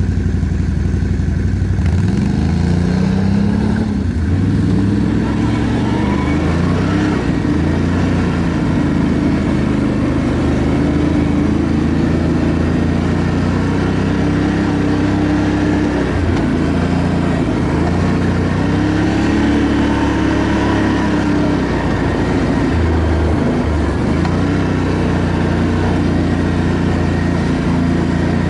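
ATV engine running under way, its pitch rising and falling repeatedly as the throttle is worked.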